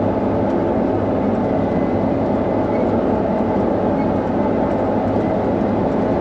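Combine harvester running under load while cutting wheat, heard from inside the cab: a steady, unchanging mechanical drone.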